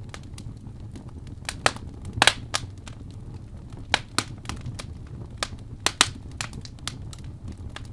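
Fire burning in a fireplace, crackling with irregular sharp pops over a steady low rumble; the loudest pops come about two seconds in and again about six seconds in.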